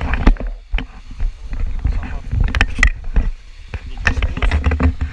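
Water splashing and sloshing with irregular knocks as people wade across a river.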